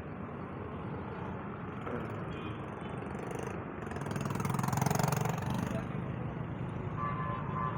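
Road traffic noise on a busy avenue, with a vehicle passing close and loudest about five seconds in.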